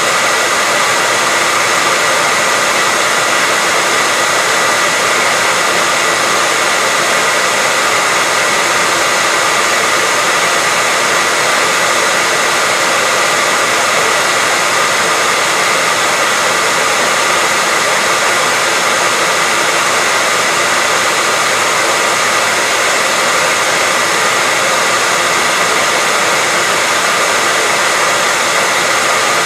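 Hair dryer running steadily, a constant loud rushing whoosh of air with a faint high whine from its fan motor.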